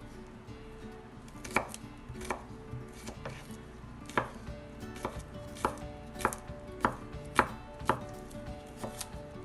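Kitchen knife chopping on a cutting board in uneven strokes, about one or two a second, starting about a second and a half in.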